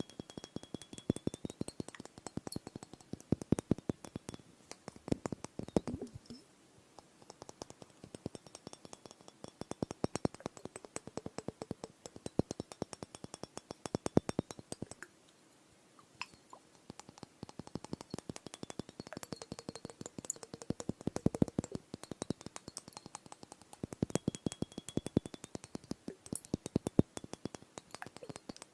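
Rapid tapping on glass ice globes, in quick runs of many taps with brief pauses.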